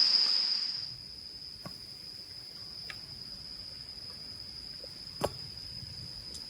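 Insects trilling steadily in one continuous high-pitched note at an outdoor campsite. A louder hiss dies away about a second in, and a few faint sharp clicks sound, the clearest about five seconds in.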